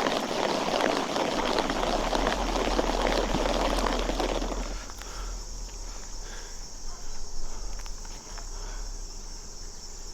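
Steady high-pitched chorus of insects, with a louder rushing noise over it for the first four and a half seconds that then stops.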